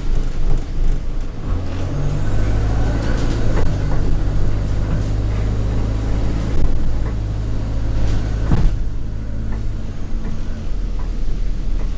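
Alexander Dennis Enviro200 bus under way, its diesel engine pulling through an Allison automatic gearbox, with a high turbo whine that rises about two seconds in and fades near eight seconds. Rattles and knocks from the bus body run throughout, one louder knock near the end.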